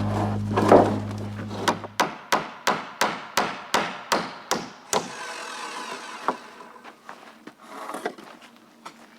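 Hammer driving nails into wood: about ten quick strikes at roughly three a second, then a few scattered knocks. A steady hum at the start cuts off about two seconds in.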